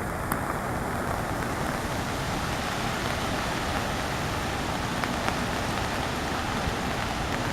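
Steady hiss of water from hurricane floodwater and rain, with no change in level.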